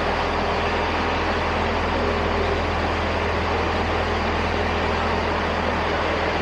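Diesel engines of a Class 165 diesel multiple unit idling at the platform: a steady low rumble with a constant hum.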